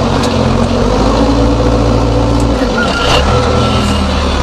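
JCB backhoe loader's diesel engine running steadily at working revs. Its note drops a little past halfway, with a few short knocks and clatters from the machine.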